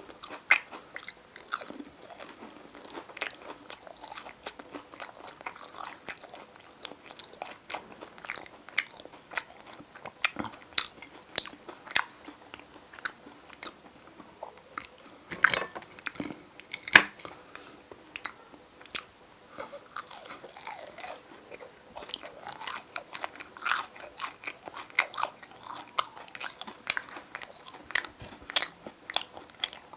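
Wet chewing and mouth sounds of a person eating potato stew (qorma kachalo), with frequent sharp clicks and smacks throughout, among them the fork against the dishes.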